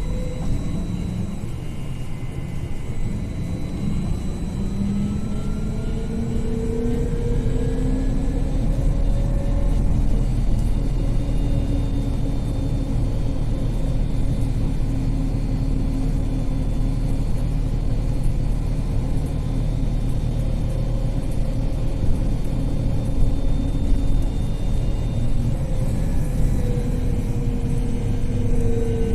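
Heard from inside the cabin, a BKM 42003A 'Vitovt' trolleybus's electric traction drive whines and rises in pitch as the bus pulls away and accelerates, holds steady while it cruises, then falls in pitch as it slows near the end. Road rumble runs underneath throughout.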